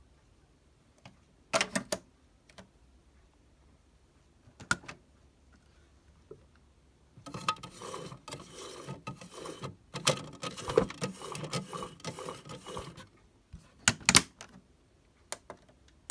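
Small plastic clicks and rattles from a toy washing machine being handled: a few sharp clicks early, then several seconds of busy clicking and clattering from about seven to thirteen seconds in, and two more clicks near the end.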